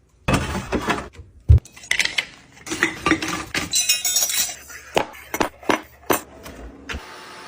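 A quick run of clinks, knocks and rattles of small hard objects, several a second, cut off abruptly near the end.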